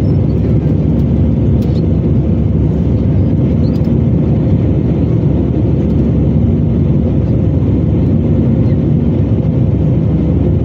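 Steady low jet-engine and airflow noise heard inside the passenger cabin of an Airbus A320-214 with CFM56-5B engines, with a faint steady hum above it.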